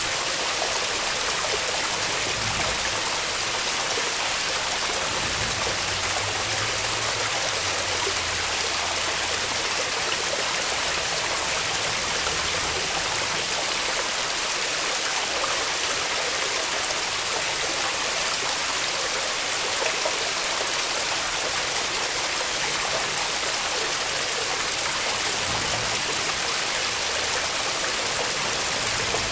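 Steady rushing of a woodland creek waterfall, an even splashing hiss that does not change.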